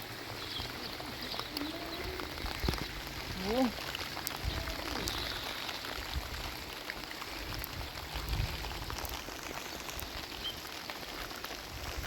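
Heavy rain falling steadily, an even hiss of rain on surfaces, with a few low rumbles here and there.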